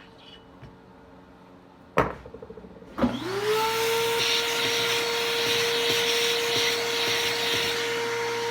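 A sharp click about two seconds in, then an electric drill spins up and runs steadily with a high whine while a countersink bit cuts into the drilled bar-stud hole of a Stihl 026 chainsaw.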